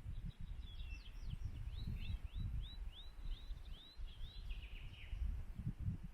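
A songbird singing a run of quick, high, arched notes, about four a second, for a few seconds, over an irregular low rumble.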